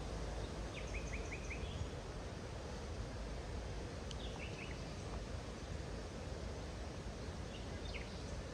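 Steady noise of wild water, with a small bird giving short runs of quick chirps three times: about a second in, around the middle, and near the end.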